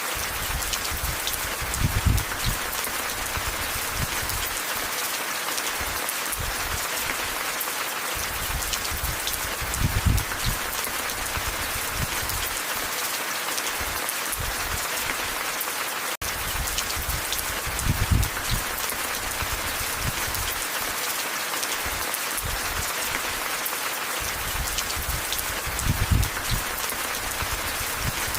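Steady rain falling, an even hiss of many drops. A short low rumble comes about every eight seconds, and the sound cuts out for an instant about halfway.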